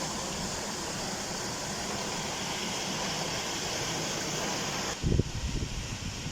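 Waterfall rushing steadily. About five seconds in it cuts off abruptly and wind buffets the microphone with uneven low thumps.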